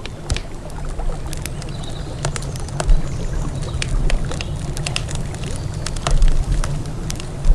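Wood campfire crackling, with frequent sharp pops and snaps at irregular intervals, louder ones about three and six seconds in, over a steady low rumble of river water.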